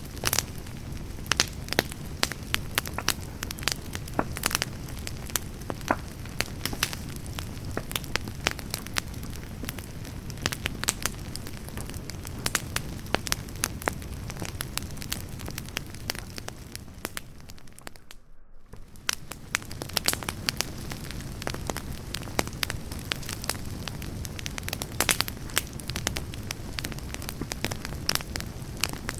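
Wood fire burning, crackling with dense irregular pops and snaps over a steady low rush of flame. The sound briefly drops away about two-thirds through, then the crackling resumes.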